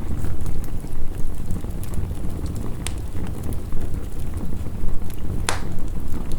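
Wood fire crackling, with scattered sharp clicks and two louder pops, over a steady low rumble of heavy rain.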